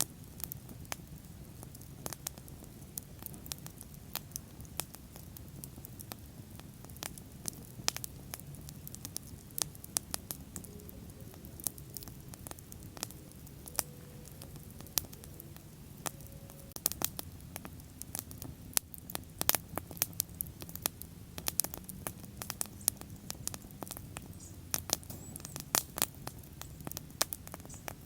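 Wood bonfire burning: dense, irregular crackles and sharp pops over a steady low rumble of the flames.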